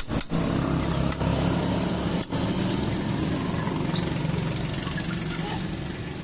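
Suzuki Raider 150 motorcycle engine idling steadily.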